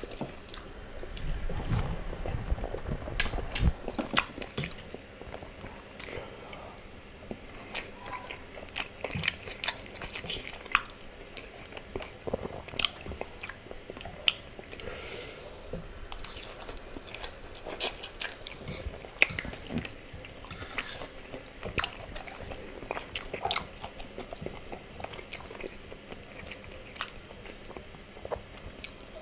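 Close-miked chewing and wet mouth sounds of a man eating boiled egg and spaghetti, with many short sharp clicks and smacks. Heavier low chewing thuds come in the first few seconds.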